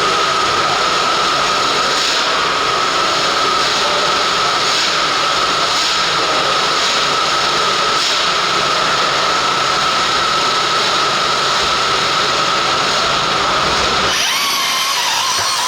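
RC pulling tractor's motor running at a steady high-pitched whine under load, over a dense mechanical hiss. Near the end the sound changes abruptly to a different, wavering whine.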